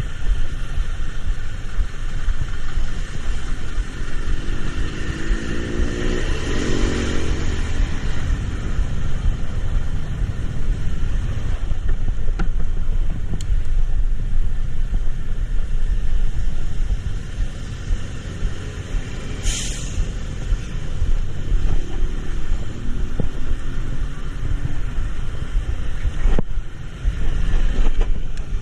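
Road traffic: a steady, heavy vehicle rumble, with another engine rising in pitch as it passes a few seconds in, and a brief sharp hiss about two-thirds of the way through.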